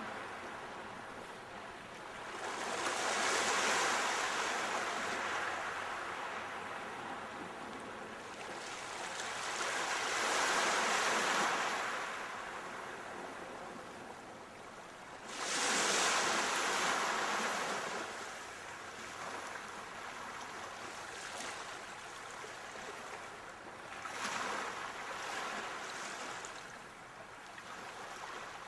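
Sea waves breaking on a shore, a steady hiss of surf that swells into a louder rush every five to seven seconds, three big ones and a smaller one near the end.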